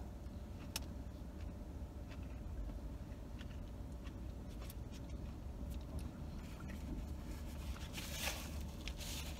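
A steady low rumble inside a parked car, with scattered faint clicks of a man chewing a soft taco, then paper rustling in his hands about eight seconds in.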